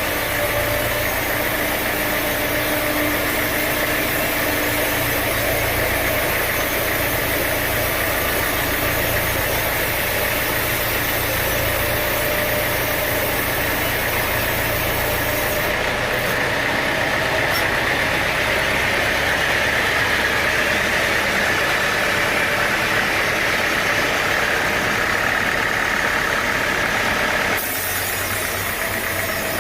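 Sawmill machinery running steadily, an engine-like mechanical drone with a noisy, hissing upper band. The sound changes abruptly near the end.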